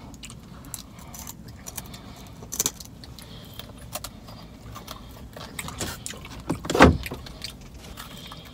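Close-up eating sounds from chewing a fried chicken wing: a run of small wet mouth clicks and smacks, with a louder knock about seven seconds in.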